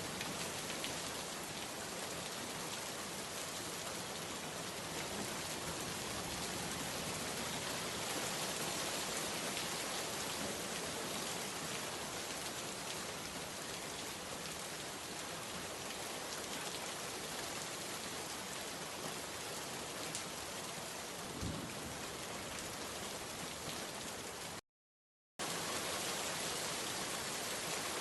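Heavy rain falling steadily, a dense even hiss of drops on surfaces. About three-quarters of the way through it cuts out to complete silence for under a second, then carries on unchanged.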